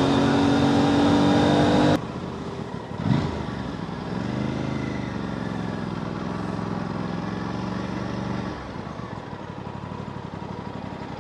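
Motorcycle engine running steadily and loud, cut off abruptly about two seconds in. A quieter engine sound follows, rising and then falling in pitch for several seconds before dropping lower.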